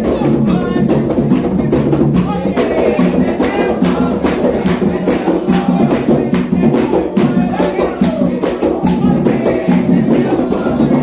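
Candomblé ritual drumming: atabaque drums and percussion playing a fast, steady rum rhythm for Oxossi, with voices singing.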